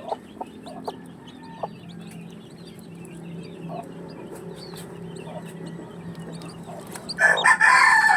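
Backyard chickens clucking, with scattered small clicks over a low steady hum, and a loud rooster crow starting about seven seconds in.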